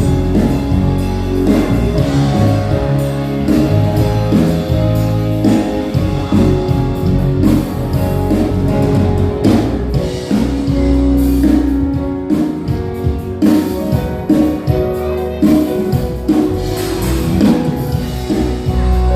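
A church worship band rehearsing live: guitar playing over bass notes and a drum kit, with regular drum hits.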